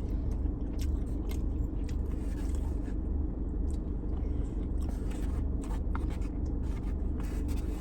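Someone eating from a takeout teriyaki chicken plate: faint scattered clicks and scrapes over a steady low hum.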